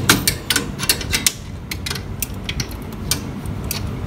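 Irregular short clicks and scrapes, several a second, of hand work on the refrigerator compressor's pipes, which are being sanded clean for welding.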